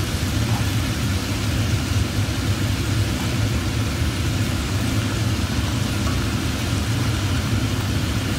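Chicken livers sizzling in hot oil in a pot as they are pan-fried, over a steady low hum.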